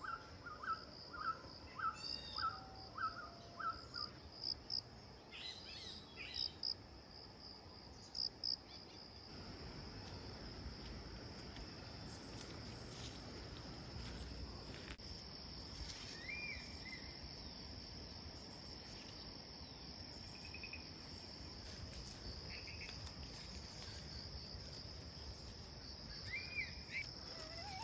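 Rural outdoor ambience: insects keep up a steady high-pitched drone, and birds call in quick repeated notes during the first seven seconds or so. From about nine seconds in, a steady hiss of light rain joins them.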